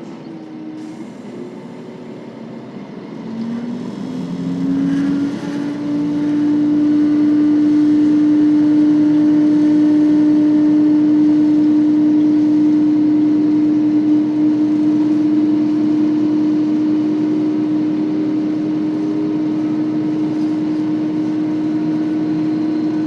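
KiHa 40 series diesel railcar's engine throttling up. Its note rises a few seconds in, and from about six seconds in it runs as a loud, steady drone at full power as the railcar accelerates.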